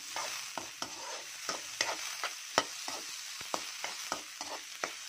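Diced pork fat and meat sizzling in hot oil with onion and garlic, stirred with a spatula that clicks and scrapes irregularly against the pan, a sharp click about two and a half seconds in being the loudest.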